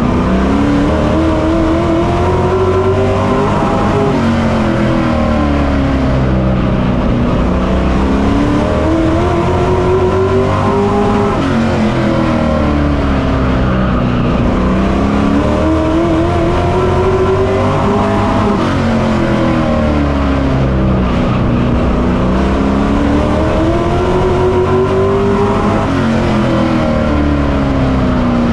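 Onboard sound of a Pro Truck racing truck's engine under hard acceleration. Its pitch climbs on each straight and drops as the driver lifts for the corners, four times over.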